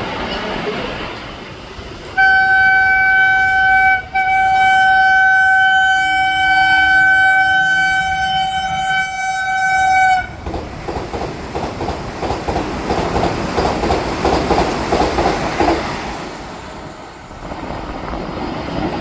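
Train horn sounding a short blast, then a long steady blast of about six seconds on one pitch. It is followed by the passing train's wheels clattering rhythmically over the rail joints, which fades near the end.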